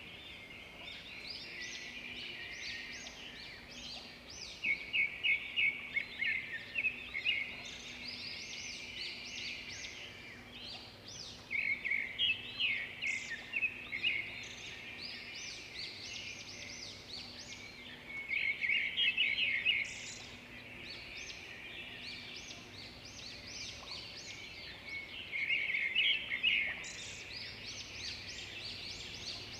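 Several birds singing: a continuous chorus of high chirps and trills, with a louder burst of rapid repeated notes returning about every six to seven seconds.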